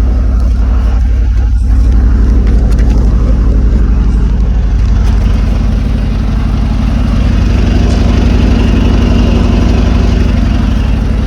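Engine of an old three-ton grain truck idling steadily and loudly, with a slight change in tone about halfway through.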